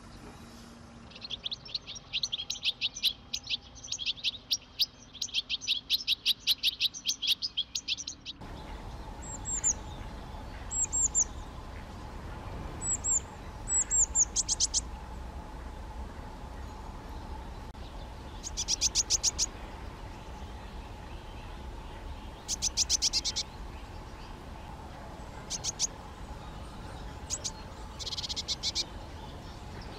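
European greenfinch singing: a long, fast trill of repeated high notes for the first several seconds. After that come short trill phrases and single high down-slurred notes spaced a few seconds apart, over a faint steady hum.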